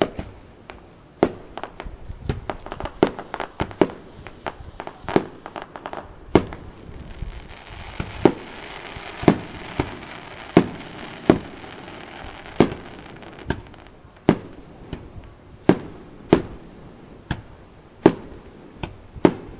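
Aerial fireworks bursting, a long string of sharp bangs at irregular intervals, with a stretch of crackling from shells fizzing out a third of the way through.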